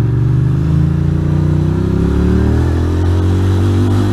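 Ducati Monster's V-twin engine running as the motorcycle is ridden, its note climbing for a moment about two seconds in and then settling.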